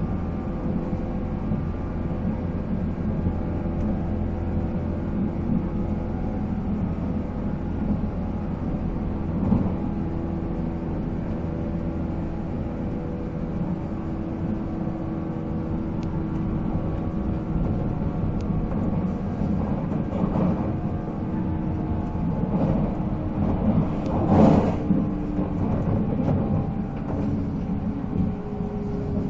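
Japanese National Railways 485-series electric train running at speed, recorded inside the car. The MT54 traction motors give a steady whine of several held tones over the rumble of wheels on rail, with a couple of brief louder bursts about ten seconds in and near the end.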